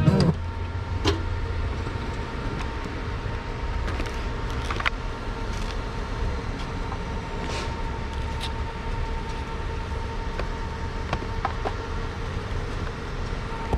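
Motorcycle engine running steadily with a low rumble and a faint steady whine.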